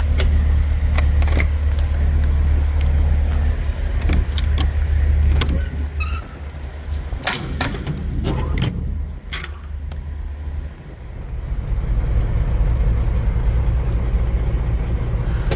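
Kenworth W900 semi truck's diesel engine running, a loud, steady low rumble, with scattered clicks and rattles over it. About eleven seconds in the rumble dips, then comes back with a different tone.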